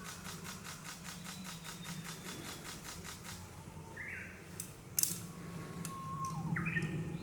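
Forest ambience with wild birds calling: short sliding call notes about four seconds in and again near the end, and a thin whistle between them. A fast, even pulsing runs through the first half, and there is one sharp click about five seconds in.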